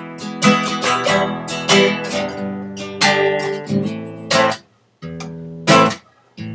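Acoustic guitar strumming chords, one strum about every second that rings on, then sparser strums with two short muted gaps near the end. Recorded through a computer's built-in microphone.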